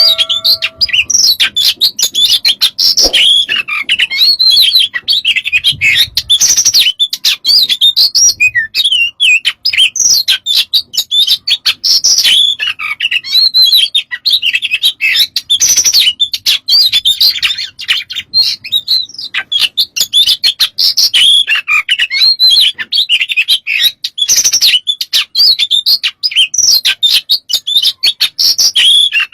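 Oriental magpie-robin (kacer) singing a fast, unbroken song of varied chirps, whistles and trills, its full 'isian' song packed with phrases.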